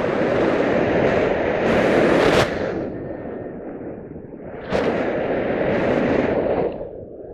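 Wind buffeting the microphone in strong gusts: a loud rush that starts abruptly, eases after about two and a half seconds, then surges again near five seconds.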